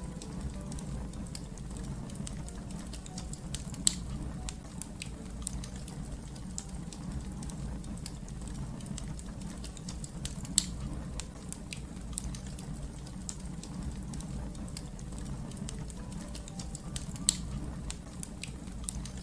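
Fire crackling steadily: a low, even rumble of burning with frequent small crackles and three louder sharp pops spread through.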